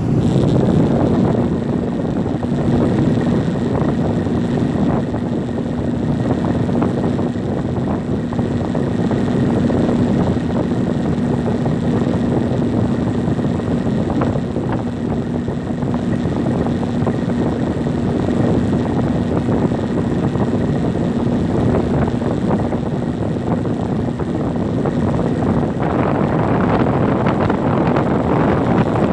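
2006 Rheem Classic 3-ton central air conditioner condensing unit running just after start-up: the condenser fan's steady rush of air over a steady compressor hum. The hum drops out near the end while the air rush grows.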